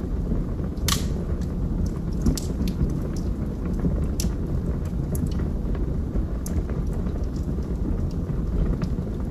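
Log fire burning in a fireplace: a steady low rumble of flames with scattered sharp crackles and pops from the burning wood, the loudest pop about a second in.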